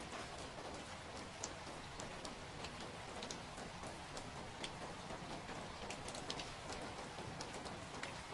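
Steady rain falling, with scattered, irregular sharp drop ticks over the continuous hiss.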